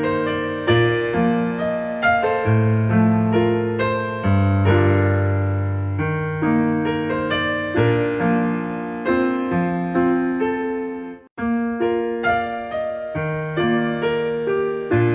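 Background piano music: gentle, evenly paced notes over sustained bass notes. It cuts out for a moment about eleven seconds in, then resumes.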